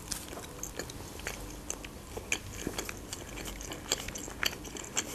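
A person chewing a mouthful of pide, Turkish baked flatbread, with soft, irregular wet clicks of chewing.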